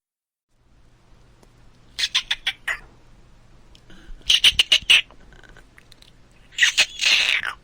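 Animal calls: three short bouts of quick, repeated high-pitched calls, each under a second long and about two seconds apart.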